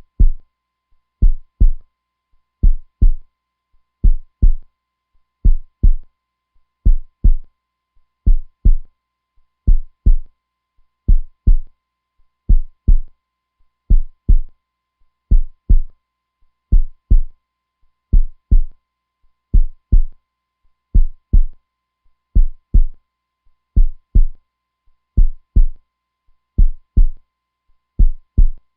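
Heartbeat sound, a strong, steady lub-dub double thump repeating evenly at about forty-odd beats a minute.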